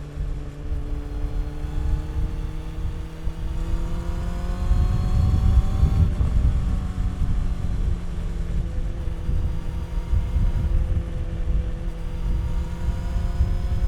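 Honda CB400 Super Four's inline-four engine and exhaust pulling under acceleration, its pitch rising steadily for about six seconds. The pitch then drops abruptly at an upshift, and the engine runs fairly steadily after that, over a heavy low rumble.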